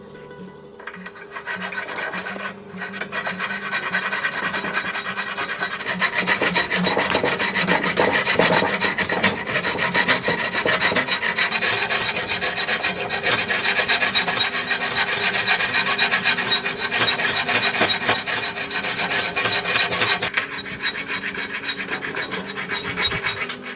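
Continuous abrasive rasping on wood, dense and rapid, as when a knife's wooden handle is filed or sanded down. It builds up over the first few seconds and eases a little near the end.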